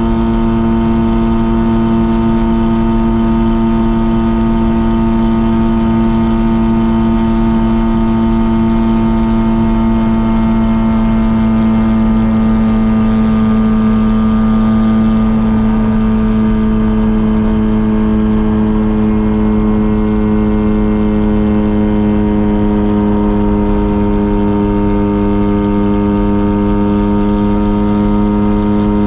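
Mazda RX-7 rotary engine exhaust running at steady cruising revs while driving, its pitch sagging slightly about halfway through and climbing back near the end.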